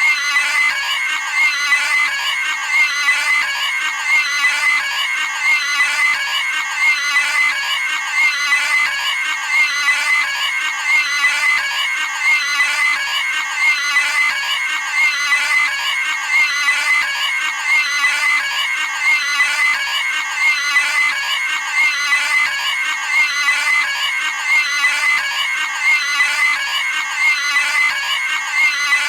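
Cartoon pig's high-pitched screaming squeal sound effect, repeated over and over in an unbroken loop.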